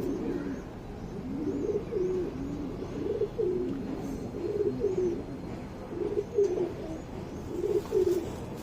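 Domestic pigeons cooing: several birds' low, rolling coos overlapping continuously at slightly different pitches, with faint high chirps behind them.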